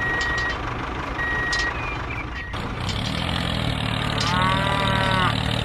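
Reversing beeper sounding twice, each beep about half a second long, over a low vehicle rumble. About two and a half seconds in, the sound changes to a steady low engine hum, with a short pitched tone near the end.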